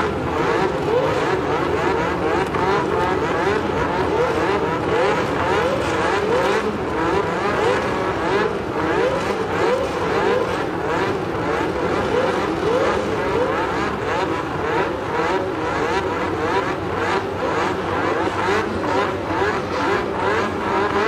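Several 1982 Formula One car engines running at high revs together, their pitches overlapping and repeatedly climbing then dropping as the cars accelerate and shift gears.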